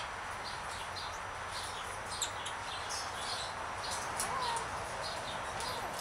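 Birds chirping: many short, high chirps scattered throughout, over a steady background hiss, with a faint lower whistle about four seconds in.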